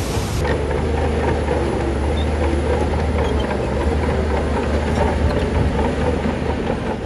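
Shantui crawler bulldozer working: the diesel engine runs steadily with a deep drone, over a constant clanking and rattling of the steel tracks.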